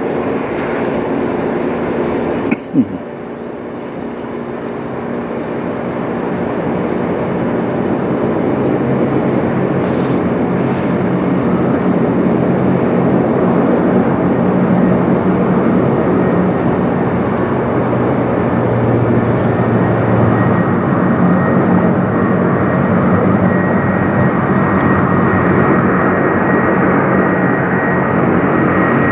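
Four-engine Boeing 747-400 jet approaching on a low flyover: a steady rumble that grows gradually louder, with a thin high steady whine joining in the second half. A brief sharp knock sounds about three seconds in.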